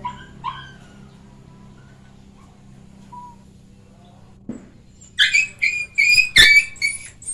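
A puppy yelps and squeals while held down for an injection: two short cries at the start, then about six loud, shrill cries in quick succession near the end, with a thump among them.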